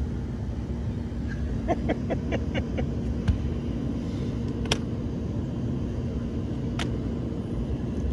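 Steady low rumble with a constant hum, like machinery running. A quick run of light ticks comes about two seconds in, and two sharp clicks come later.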